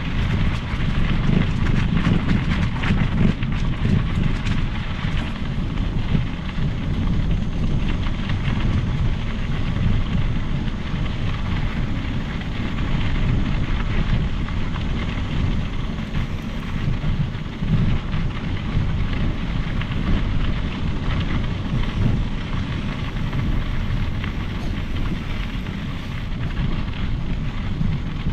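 Riding noise from a Specialized Epic Pro mountain bike on a trail: tyres rolling and the bike rattling, under a steady rumble of wind on the microphone.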